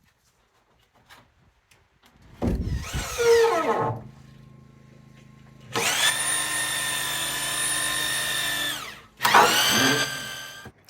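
Power drill run in three bursts: a short one whose pitch drops as it slows, a steady run of about three seconds, then another short burst.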